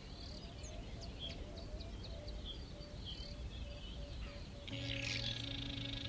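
Small birds chirping and calling in short, high notes, with a denser burst of song about five seconds in.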